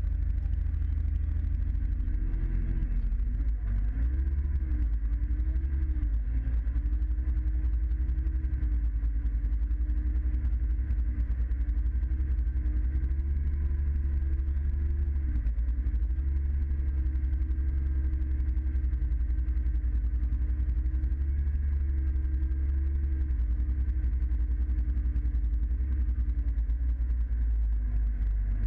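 Scania truck's diesel engine running steadily and heavily, its note dipping and picking up again a few times.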